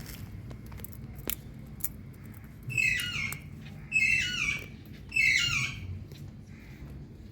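Indian ringneck parakeet giving three loud calls a little over a second apart, each one dropping in pitch. Two short sharp clicks come before the calls.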